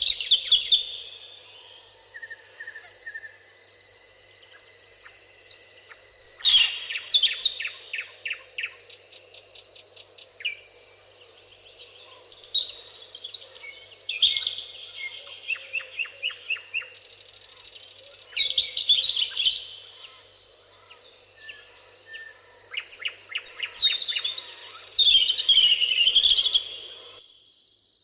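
Several songbirds singing and calling, with bursts of rapid trills and chirps every few seconds over a steady high-pitched tone.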